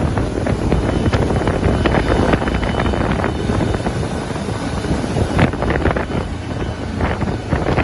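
Heavy wind buffeting on the microphone over a motorboat running on the water, a steady rushing with irregular gusts.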